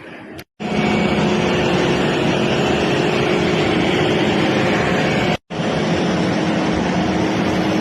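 Loud, steady machine-like drone: a constant hum with noise over it. It cuts off abruptly about half a second in and again just past five seconds, each time resuming at once.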